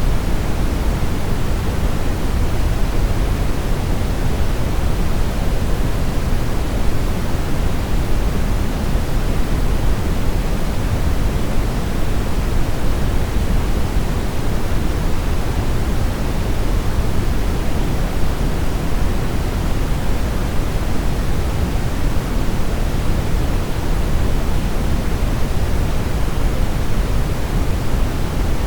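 Steady brown noise: an even, deep rushing hiss, strongest in the bass and fading toward the treble.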